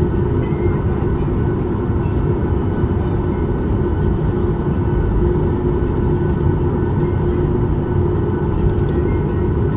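Steady cabin noise of a Boeing 737 MAX 8 taxiing on the ground: its CFM LEAP-1B engines running at idle with a steady hum over a low rumble.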